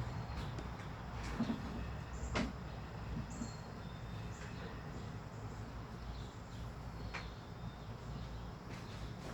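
Birds feeding at a bird feeder: scattered sharp taps and clicks with a few faint, short high chirps over a steady low rumble.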